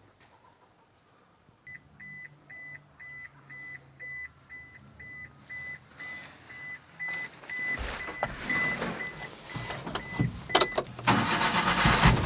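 Suzuki Carry kei truck being started. With the ignition on, an electronic warning beep repeats two or three times a second over a low hum. From about eight seconds in the starter cranks, and near the end the 660 cc three-cylinder engine catches and runs.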